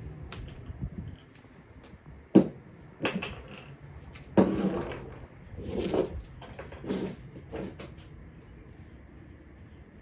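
Knocks and clatters of small tools and parts being handled while working on the engine, the sharpest knock about two seconds in, then several more short clatters.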